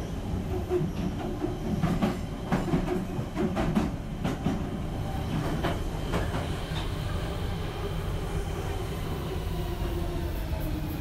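Train running on rails with a steady low rumble. Sharp clacks of the wheels over rail joints come through in the first half, and faint high gliding tones, like wheel squeal, come in during the second half.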